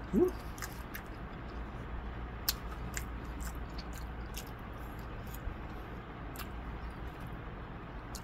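Close-up eating sounds: a person chewing food with scattered wet mouth clicks and smacks, over a steady low hum. Right at the start a brief rising vocal sound from the eater.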